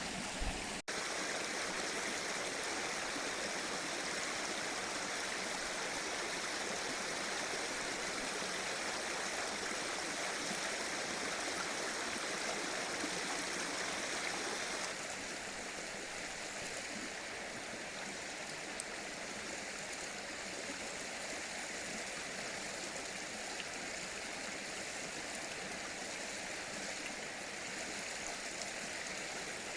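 Mountain stream flowing over rocks, a steady rush of water; it becomes a little quieter and changes in tone about halfway through.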